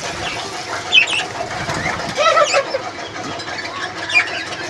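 Grey francolins calling: a few short calls over a steady background.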